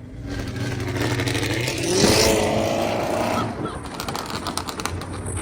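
Cammed Chevrolet Camaro engine accelerating hard. Its pitch rises for about a second and a half and peaks about two seconds in, then settles back to a steadier running sound.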